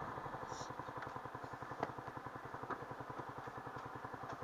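Yamaha R15 V3's single-cylinder engine running at low revs with an even pulsing beat as the bike rolls slowly. Two light clicks come through near the middle.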